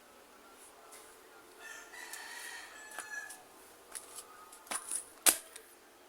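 A rooster crowing once, a drawn-out call of about a second and a half, fairly faint. Near the end come two sharp knocks, the second the loudest sound.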